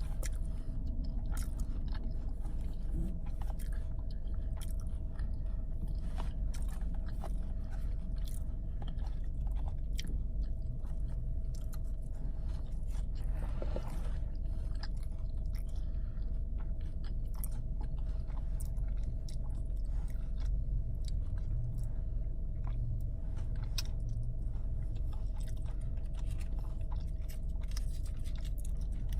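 A person chewing and biting food close to the microphone, with many small mouth clicks, over a steady low hum.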